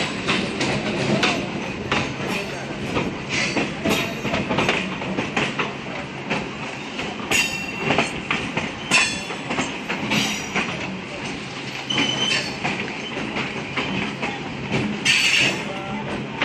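Two electric multiple-unit suburban local trains running side by side, heard from an open doorway: steady running noise with wheels clattering over rail joints and points. Brief high wheel squeals break through several times.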